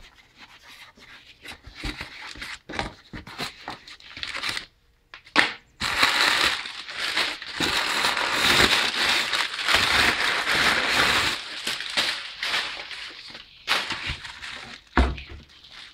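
Packing material in a cardboard shipping box being crumpled and rustled by hand, with scattered clicks and handling noises at first and a long spell of continuous crinkling through the middle. A couple of dull knocks come near the end.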